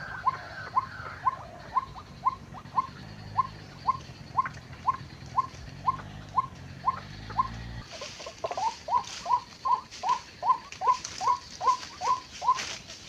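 White-breasted waterhen call: short, hooked notes repeated steadily about twice a second. From about eight seconds in, a second overlapping series of the same notes joins, faster and louder, with crackling rustle.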